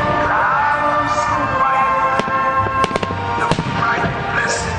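Aerial fireworks bursting overhead: several sharp bangs and crackles over music that plays throughout, accompanying the synchronized display.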